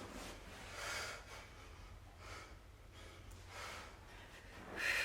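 A woman breathing hard through a set of kettlebell lunges and presses: heavy breaths in and out, one roughly every second and a half, the strongest near the end.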